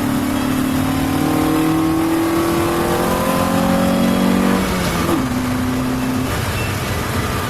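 Honda Civic's 1.6-litre SOHC four-cylinder (D16Y7 with short ram air intake and race header) accelerating hard, its pitch climbing steadily for about five seconds, then dropping sharply at an upshift and holding steady.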